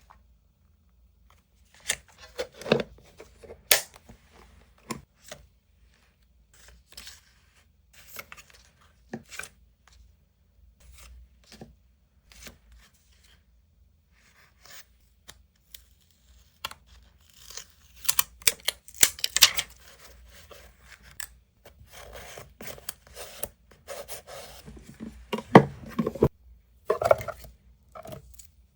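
Paper being handled, cut and torn for scrapbook journaling: scattered short taps and rustles with pauses between, becoming busier and more continuous in the second half.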